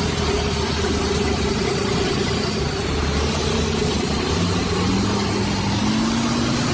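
An engine running steadily, its pitch climbing over the last couple of seconds as it picks up speed.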